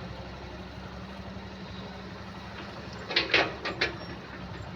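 Mahindra tractor's diesel engine running steadily. A little over three seconds in, four short, loud sounds come in quick succession over it.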